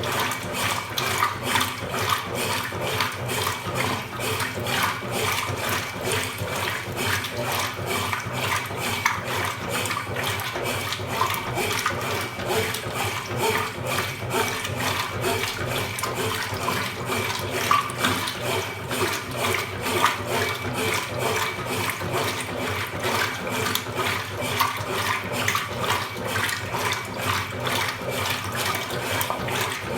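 Consul Super Cargo 8 kg (CWL08C) washing machine running mid-cycle, water rushing and sloshing steadily in the tub.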